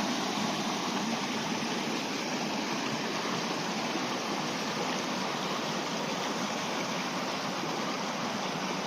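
Fast-flowing river water rushing steadily over rocks, the river running high and fast.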